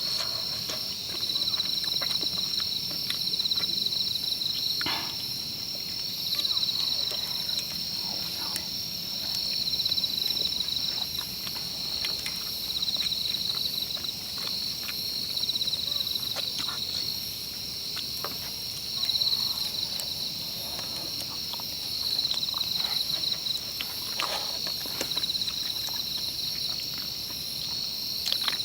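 Evening insect chorus, a steady pulsing trill at two high pitches, with scattered faint clicks and taps.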